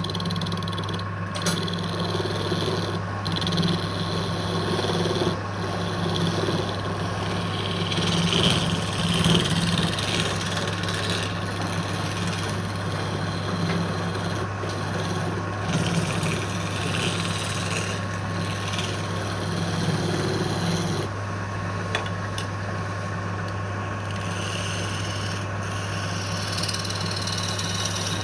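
Wood lathe running with a steady motor hum while something rubs and scrapes against the spinning wood, the scraping swelling and easing in uneven strokes.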